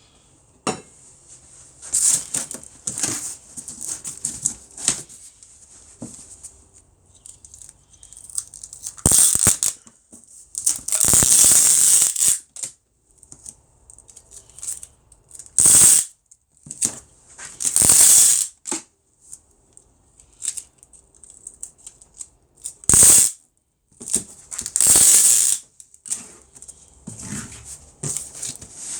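Packing tape being pulled off the roll in several loud screeching strips and pressed onto a cardboard box as its flaps are folded down and sealed, with cardboard rustling and knocking between the pulls.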